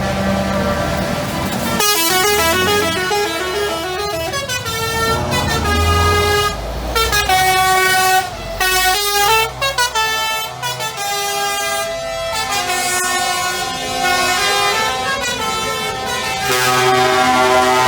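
Truck air horns sounding one after another and together, their notes stepping up and down in pitch, over the low running of diesel truck engines.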